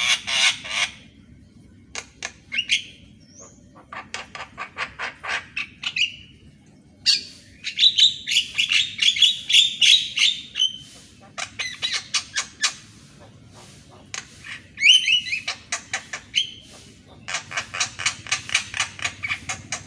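Javan myna (jalak kebo) singing a chattering song: bursts of rapid rattling clicks mixed with harsh squawks, broken by short pauses.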